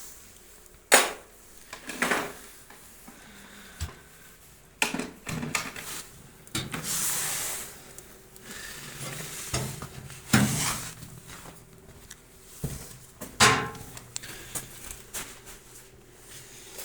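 Irregular metallic clanks and knocks of hard objects being handled, with a longer scraping or rustling noise about seven seconds in.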